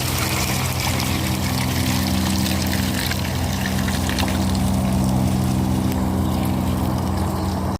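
Magic Mobility Extreme X8 powerchair driving through a wet, boggy patch: a steady hum from its electric drive motors over the watery noise of the tyres going through wet ground.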